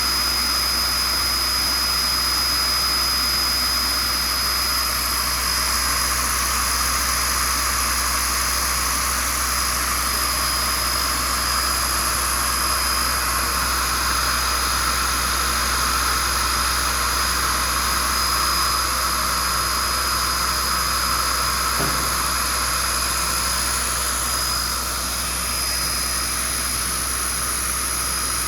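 Rebuilt Bridgeport/Hardinge 50-taper machine spindle running at high speed on a test bench, a steady high-pitched whine. It is a post-rebuild test run for speed, vibration and temperature.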